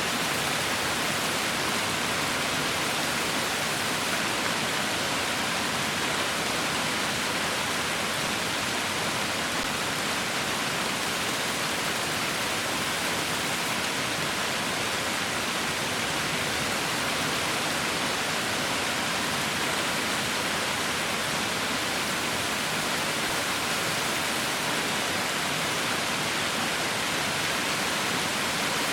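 Heavy rain falling: a dense, steady hiss of rain with no separate drops or thunder standing out.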